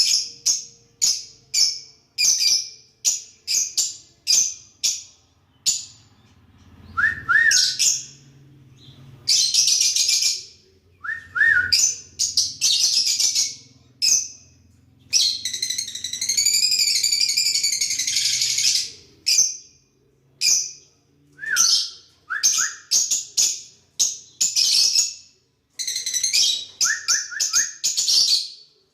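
Pet lovebirds chirping in quick runs of sharp, high-pitched calls, with longer stretches of shrill chatter. The longest of these, past the middle, lasts about four seconds.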